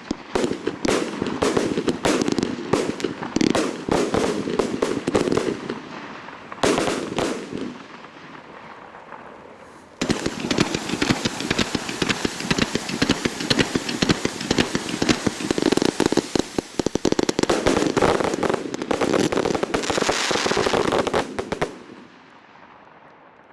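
Fireworks display firing in rapid, dense volleys of bangs and crackling. It thins out about seven seconds in, then a sudden, louder non-stop barrage starts about ten seconds in and cuts off shortly before the end: the display's finale.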